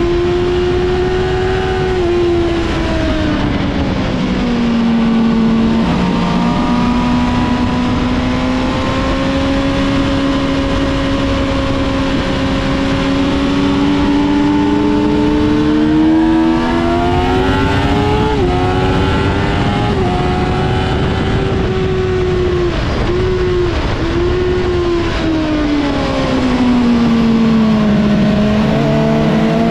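Suzuki GSX-R sportbike's inline-four engine heard from onboard at track speed, its pitch rising and falling through gear changes, with a few quick dips about two-thirds of the way in. Steady wind rush runs underneath.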